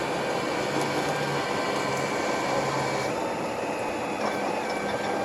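A machine or motor running steadily: an even hiss with several held tones that shift slightly about three seconds in.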